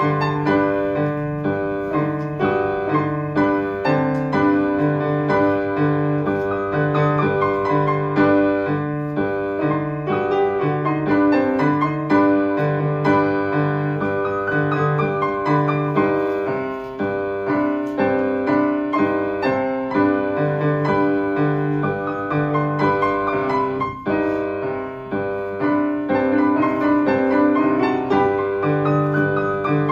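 Solo piano playing an exotic-sounding melody over a steady, evenly repeated low note in the bass, like a plodding walk.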